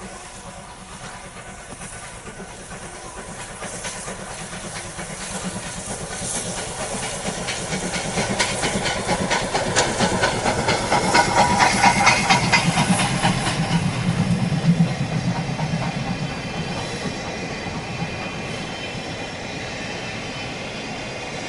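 Steam locomotive and its train passing close by: rapid chuffing exhaust beats and hissing steam build to a peak about halfway through, then the sound fades to the rumble and clicking of the coaches rolling away.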